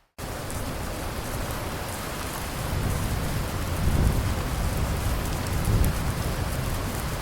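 Steady rain falling, with low rumbles of thunder swelling from about three seconds in. It opens with a split-second dropout to silence before the rain cuts back in.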